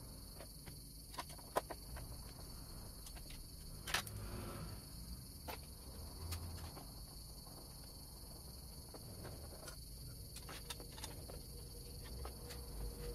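Steady high chirring of crickets, with scattered light clicks and taps and a sharper knock about four seconds in.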